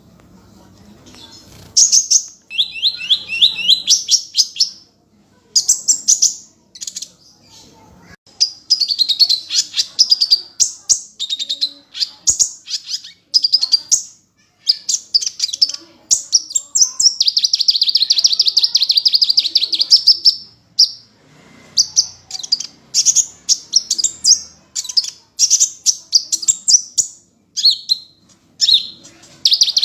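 Sunbird of the kind known in Indonesia as kolibri ninja singing: rapid, high-pitched trills and sharp chirps in repeated bursts, starting about two seconds in, with one long unbroken trill around the middle.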